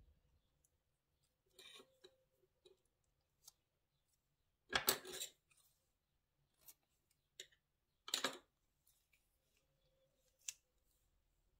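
Plastic slime-ingredient bags being handled and cut: a few short crisp snipping or crinkling bursts, the loudest about five seconds in and another about eight seconds in, with scattered light clicks.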